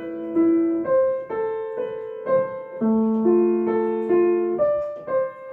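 Piano played slowly with the left hand alone: a broken-chord accompaniment figure of single notes, about two a second, each held so the notes ring together.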